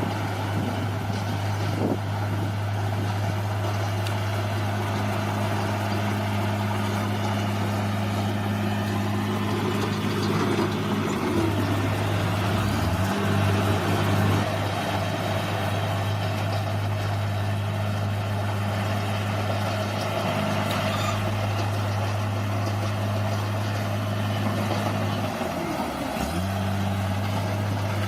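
Bulldozer's diesel engine running steadily under load with a constant deep drone and a noisy clatter over it. Its pitch sags and recovers briefly about eleven seconds in, and again near the end.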